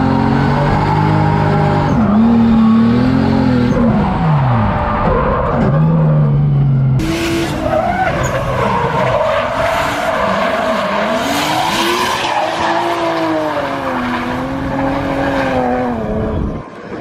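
Drift car engine revving up and down through a slide, tires skidding and squealing. The engine pitch swings up and down again and again, with a sudden change in the sound about seven seconds in and a short drop near the end.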